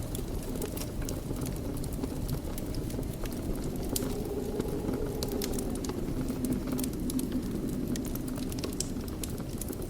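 Wood fire crackling in a fireplace: a steady low rumble of burning with frequent small sharp pops and snaps.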